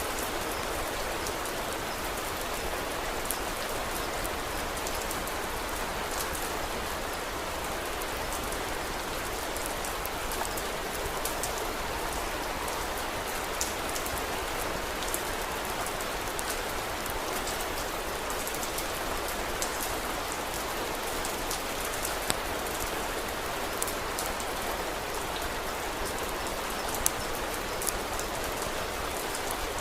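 Steady rain falling, an even hiss throughout, with scattered sharp crackles and ticks from a wood fire mixed in.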